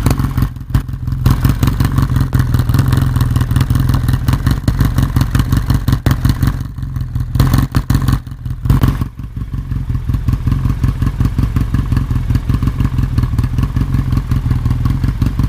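Arctic Cat Wildcat Sport UTV engine idling steadily through a newly installed HMF aftermarket muffler, with a few brief dips in level.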